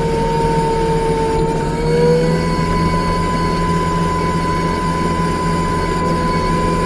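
New Holland C327 skid steer running with its McLaren RM60 forestry mulching head: a steady engine drone with a high, held whine on top. About two seconds in, the lower note of the whine fades out and the upper note shifts slightly higher and holds.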